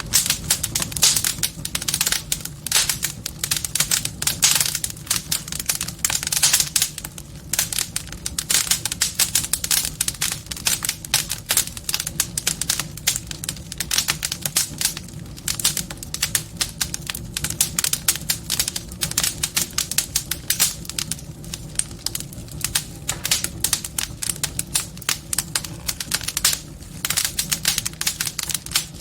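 Wood fire crackling in a fireplace: dense, irregular pops and snaps over a low, steady rumble of the flames.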